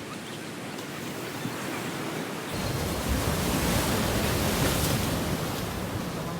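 Sea surf washing onto a beach, a steady hiss that grows louder and heavier about halfway through.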